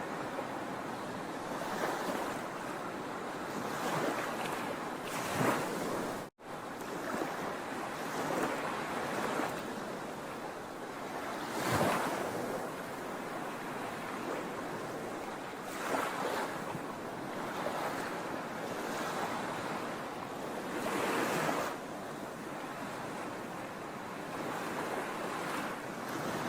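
Ocean waves washing and breaking on a shore: a steady rush of surf with a louder break every three to five seconds. The sound cuts out for an instant about six seconds in.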